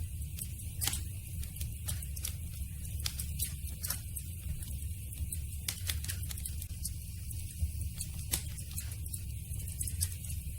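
Campfire crackling: burning wood giving off irregular sharp pops and snaps, several a second, over a steady low rumble.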